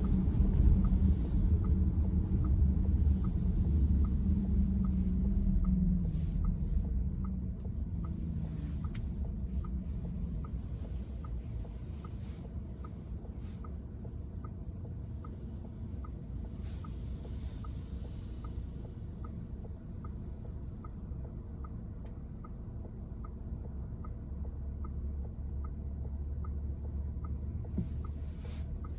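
Car running, heard from inside: a steady low engine and road rumble that eases after about seven seconds, with a faint regular ticking about two or three times a second and a few scattered clicks.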